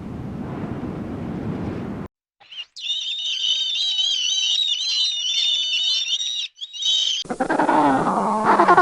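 A brief rush of noise cuts off, then comes a dense, high-pitched chorus of wavering chirps from many small animals. Near the end, whining animal calls slide down in pitch.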